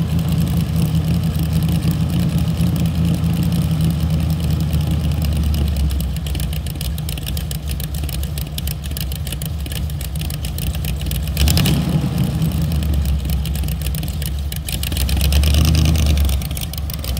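A vehicle engine running at a steady idle, with a short rev about two-thirds of the way through and a longer rise in revs near the end.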